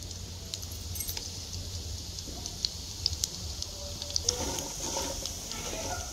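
Walnuts frying in desi ghee in a kadhai: a steady sizzle with scattered metallic clinks and scrapes of a spatula stirring them.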